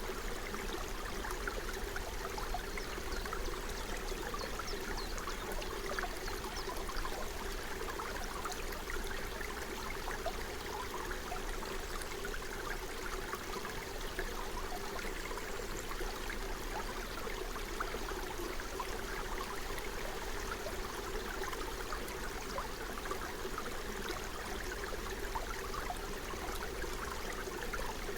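Forest stream running and babbling over stones: a steady rush of water with fine splashing flickers throughout.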